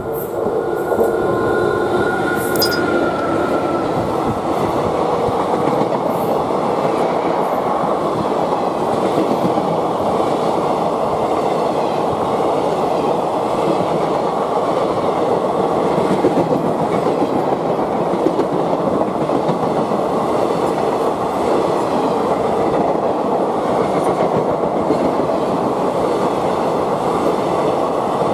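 Passenger express hauled by a WAP-4 electric locomotive passing at speed close by: a loud, steady rush of the coaches running on the rails. A tone from the locomotive fades over the first few seconds as it goes by.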